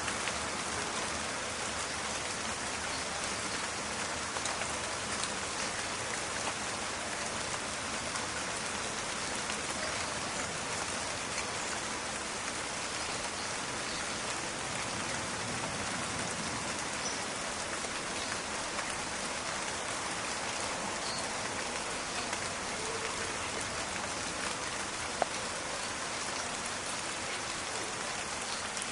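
Steady rain in a forest: a dense, crackling patter of raindrops, with one sharper single tap near the end.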